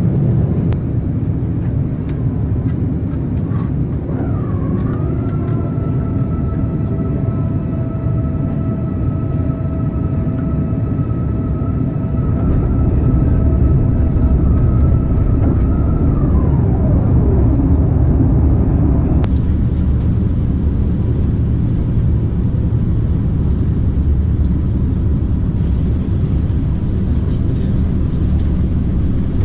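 Airbus A350-941 cabin noise: a steady, loud rumble of engines and rushing air. A mechanical whine comes in about four seconds in, holds level, then slides down in pitch and dies away about halfway through, while the low rumble grows louder from about twelve seconds.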